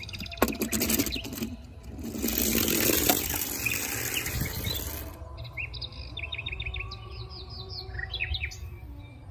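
Some clattering clicks, then about three seconds of loud rushing noise, then birds chirping in short, quickly repeated notes.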